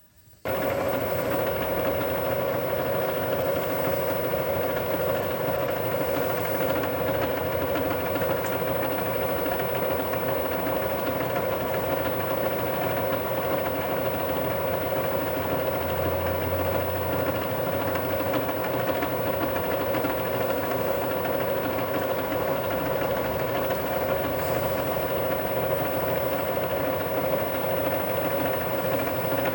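Milling machine switched on and running steadily with an even whine, its spindle turning an edge finder.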